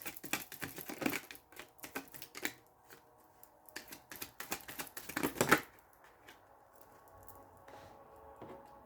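A tarot deck being shuffled by hand: a rapid, irregular run of card clicks and slaps that stops about five and a half seconds in. Faint background music follows.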